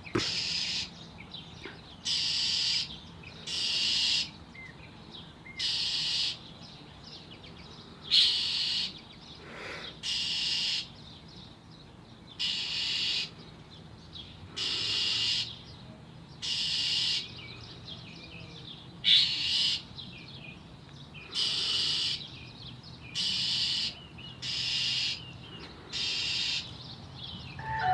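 An agitated bird repeating a harsh, rasping alarm call about every two seconds, each call about half a second long: scolding typical of a bird mobbing a cat near its tree.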